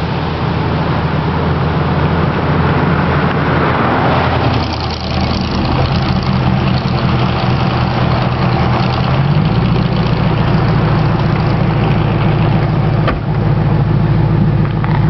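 Ford Crown Victoria P71's 4.6-litre V8 running with no mufflers, a loud, deep exhaust note. It swells about four seconds in, dips briefly, then settles slightly higher in pitch from about nine seconds on.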